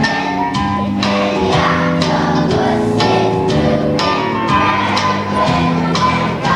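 A children's choir singing a song with instrumental accompaniment and a steady beat.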